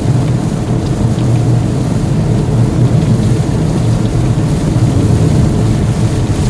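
Heavy rain falling on a moving car, heard from inside the cabin together with a steady low rumble of tyres and road.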